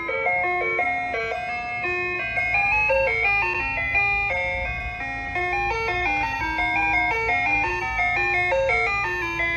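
Ice cream truck's chime playing its jingle: a bright, tinkling melody of short stepped notes that repeats, over a steady low hum.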